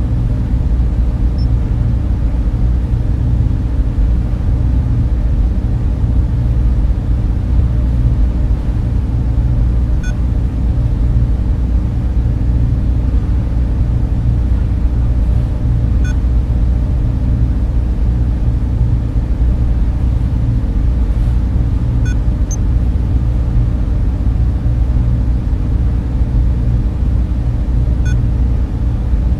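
Steady, loud low hum of data center servers and cooling fans, with faint short high blips about every six seconds.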